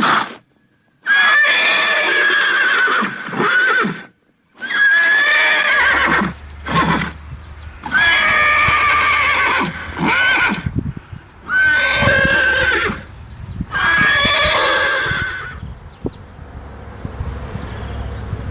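A horse whinnying repeatedly: about six loud, quavering neighs of a second or two each, with short pauses between them. From about a third of the way in, a low hum and faint low knocking run underneath.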